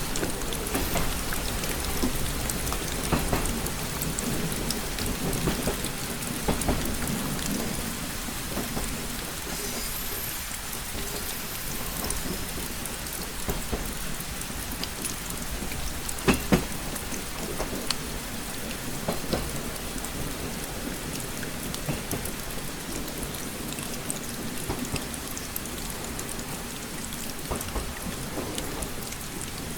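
Steady rain tapping on a window glass, with many separate drops ticking over a low rumble, and one sharper tap about halfway through.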